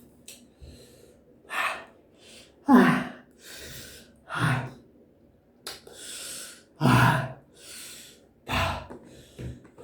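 A person gasping and breathing hard in repeated short, sharp breaths, several voiced like a 'hah', the way a mouth burns after very spicy sambal.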